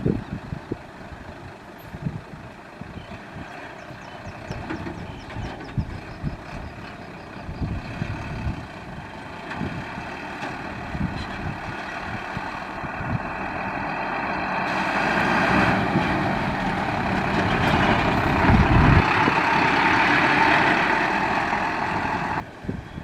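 Heavy dump truck running, growing steadily louder through the second half and loudest near the end, then stopping abruptly.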